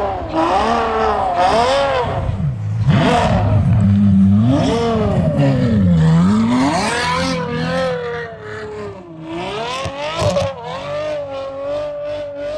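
Ferrari F12's naturally aspirated V12 engine revving, its pitch rising and falling several times, then holding a steadier, slightly wavering note from about eight seconds in. A few sharp knocks come about ten seconds in.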